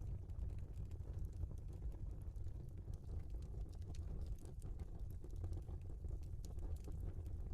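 Logs burning in a fireplace: a steady low rumble of the flames with frequent small crackles and pops scattered throughout.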